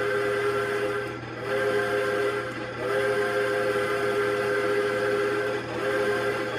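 Steam locomotive whistle blowing a chord of several steady tones in a string of long blasts, each broken off briefly before the next: about four blasts.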